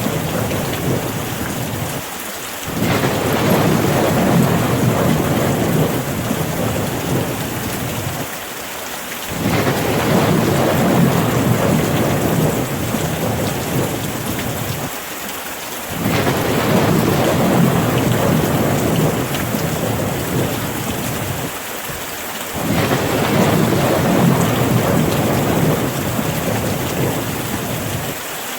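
Rain falling steadily with a heavy low rumble. The sound dips briefly about every six and a half seconds, as in a short repeating loop.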